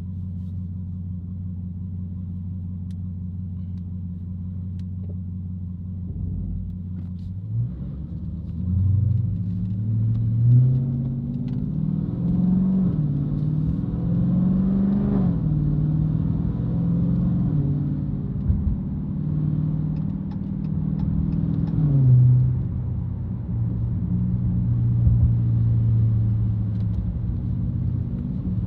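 Dodge Challenger Hellcat's supercharged V8 idling steadily, then pulling away about seven seconds in. Engine pitch climbs and drops back several times as it accelerates through the gears, then settles to a steady cruise.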